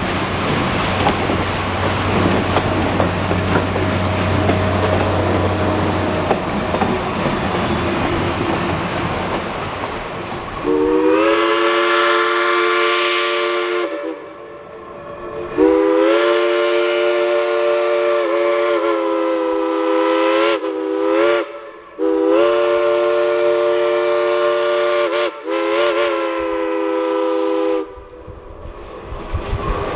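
Steam locomotive working past with its running gear and exhaust. Then its multi-note chime whistle sounds four times, long, long, short, long, the grade-crossing signal.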